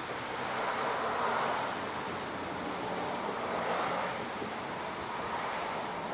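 A steady high-pitched pulsing trill, insect-like, similar to a cricket's, over a rushing background noise.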